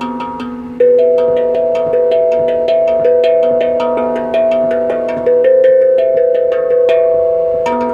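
Tuned metal percussion played melodically, struck rapidly at about five or six notes a second. Each note rings on and overlaps the next, with louder accented strikes about a second in and at a few points after.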